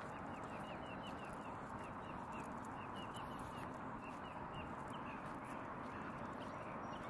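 A bird giving a long run of short, falling chirps, several a second, over a steady outdoor hiss and the walker's footsteps on pavement.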